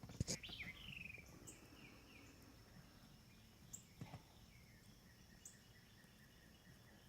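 Faint outdoor birdsong: a quick series of short falling chirps in the first couple of seconds, then a few isolated high chirps, over a faint steady high insect drone, with a couple of soft clicks.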